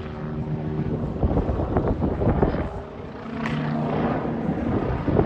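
Red Bull's MBB Bo-105 C twin-turbine helicopter flying a display, its rotor and engines heard from the ground. A steady low hum in the sound drops away after about a second and comes back near the middle.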